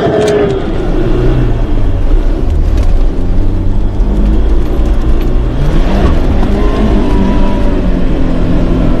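Car engine running with a steady low drone, heard from inside the cabin, revving up in pitch about six seconds in.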